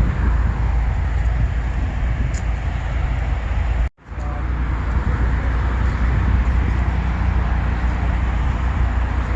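Car engines running as cars roll past, a steady low rumble. The sound cuts out for an instant about four seconds in, then resumes.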